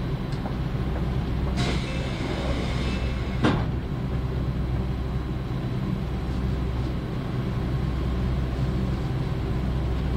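JR Central 311 series electric train running, heard from inside the carriage: a steady low hum with rail noise. A brief rush of hiss comes about one and a half seconds in, and a single sharp knock about three and a half seconds in.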